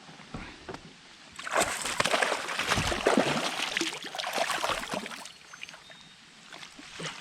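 Water splashing and sloshing beside a fishing kayak for a few seconds, starting about a second and a half in, as a hooked bass is fought at the surface.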